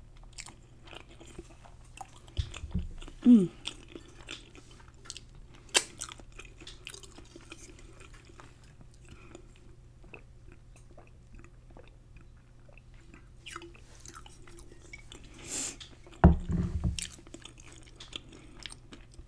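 Close-miked chewing and crunching of food, with many small wet mouth clicks, and a few louder mouth noises about three seconds in and again near the end.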